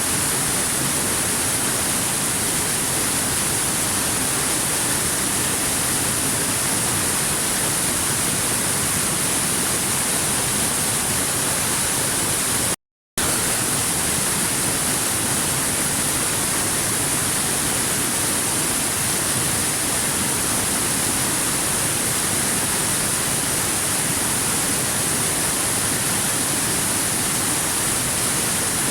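Waterfall rushing: a steady, even hiss of falling water that does not change, broken by a momentary dropout to silence about thirteen seconds in.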